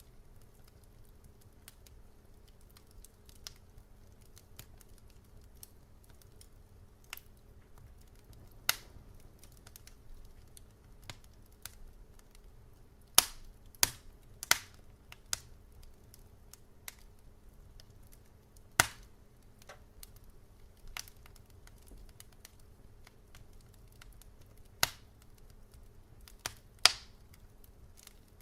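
Wood fire crackling: irregular sharp pops and snaps, a few loud ones clustered around the middle and near the end, over a faint low rumble.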